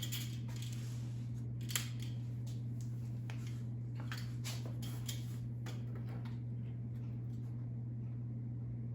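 Hand tools clicking and scraping against metal in short irregular bursts while working a bolt on a snowmobile chain case, with one sharper click about two seconds in, dying away after about six seconds. A steady low hum runs underneath and is the loudest sound.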